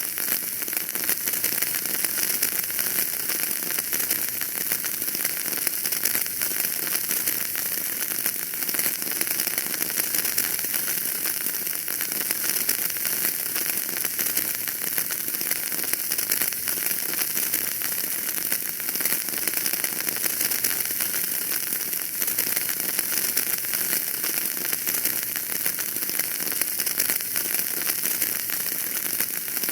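Wood fire crackling steadily in a fireplace: a constant hiss dotted with many small, quick pops.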